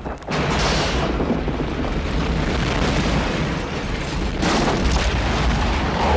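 Loud, sustained explosion-like rumble and roar from a disaster film's sound effects, heavy in the bass, after a brief drop just at the start. Music plays faintly underneath.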